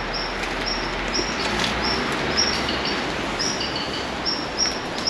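A small bird chirping the same short, high note over and over, about twice a second, with a few lower notes between, over a steady rushing hiss.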